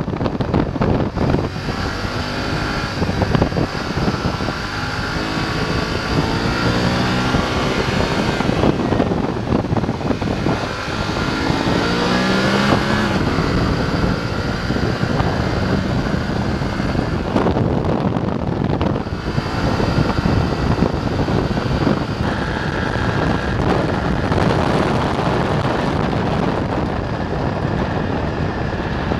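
BMW F850 GS parallel-twin engine pulling the motorcycle along a winding road, its revs rising and falling through the bends, with wind rushing over the microphone.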